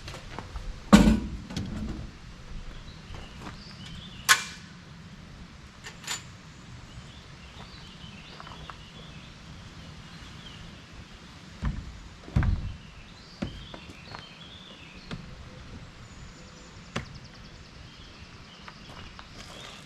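Scattered thumps and knocks over a steady outdoor background. The loudest comes about a second in, with a sharp knock a few seconds later and a pair of heavier thumps about twelve seconds in. Faint bird chirps are heard higher up.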